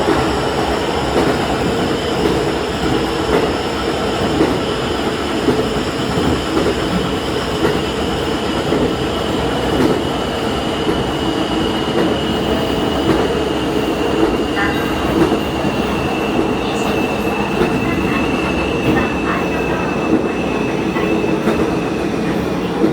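Diesel railcar running along the line, heard from the cab: a steady rumble of engine and wheels on rail, with a high whine that slowly falls in pitch and a few clicks over the rail joints in the second half.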